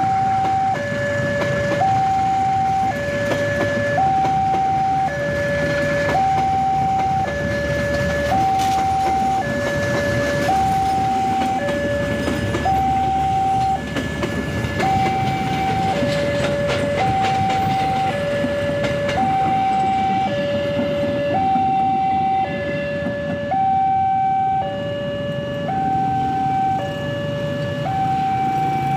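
Railway level-crossing warning alarm sounding a steady two-tone electronic signal, alternating a higher and a lower note about a second each, over a continuous low rumble.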